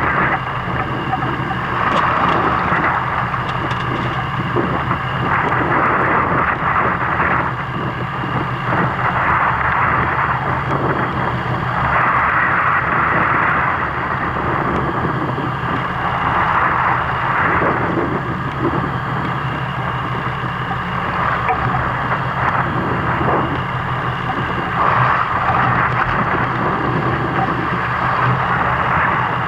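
Fishing boat's engine running steadily, under a rushing wind-and-water noise that swells and fades every few seconds.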